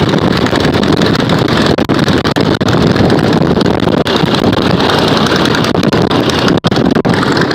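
Heavy wind buffeting the microphone: a loud, steady rumble and hiss with a few brief dropouts.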